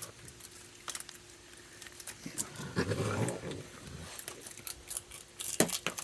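A raccoon snarling: a rough growl lasting about a second and a half near the middle, over scattered light clicks and taps.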